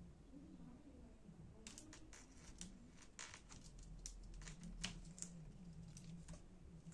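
Faint, irregular light clicks and taps, starting about two seconds in, from small laptop parts being handled.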